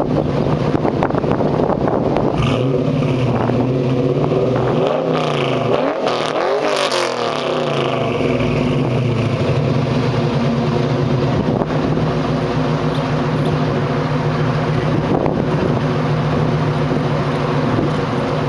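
Chevrolet Camaro's LS1 V8 running through long-tube headers, high-flow catalytic converters and true dual single-chamber Flowmaster mufflers. It is revved a few seconds in, with the pitch rising and falling, then settles into a steady idle.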